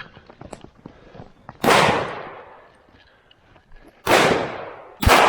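Three shotgun shots fired at a pheasant: the first about a second and a half in, then two more about a second apart near the end. Each blast trails off over most of a second.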